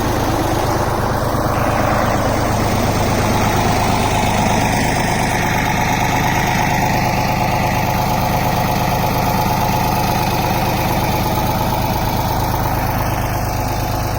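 Waldon 5000 articulated wheel loader's Deutz diesel engine idling steadily, warmed up.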